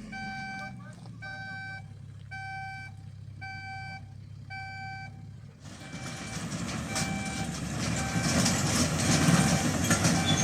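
A vehicle's reversing alarm beeping at a steady pace, about one beep every three-quarters of a second, over a low engine rumble. After about five and a half seconds a louder rushing noise rises and the beeps carry on faintly beneath it.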